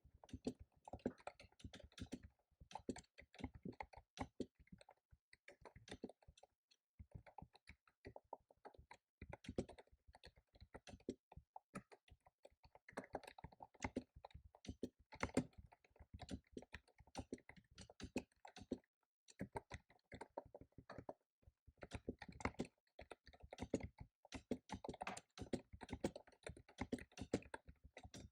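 Computer keyboard being typed on quickly and steadily, in bursts of rapid key clicks with short pauses between them.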